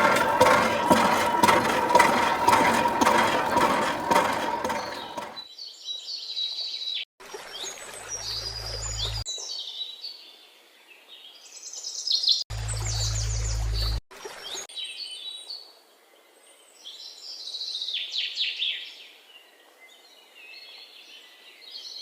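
Background music that stops suddenly about five seconds in, followed by birds chirping in short clips joined by abrupt cuts. Two brief stretches of low steady rumble come in under the chirps.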